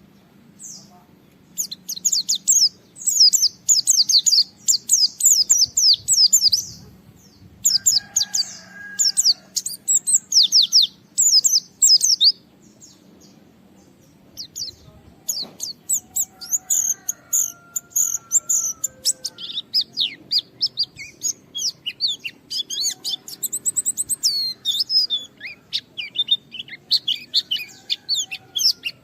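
White-eye (pleci) singing in rapid, very high twittering bursts of a second or two each, separated by short pauses, with a longer pause a little under halfway through. Fainter, lower warbled notes come in now and then.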